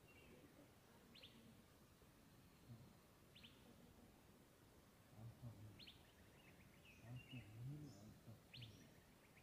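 Faint wild bird calls: a short, sharp high call repeated about every two and a half seconds, with a few other chirps between. A few low, indistinct sounds come about halfway through.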